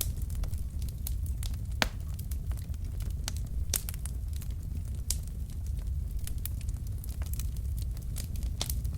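Logs burning in a fireplace, crackling with irregular sharp pops over a steady low rumble of the flames; one louder pop comes about two seconds in.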